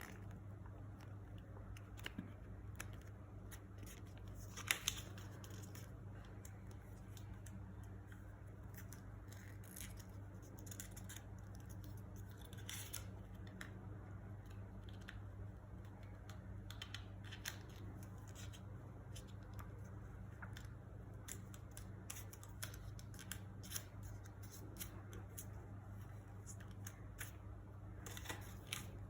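A sheet of origami paper being handled, folded and creased by hand: scattered crinkles and crackles over a steady low hum.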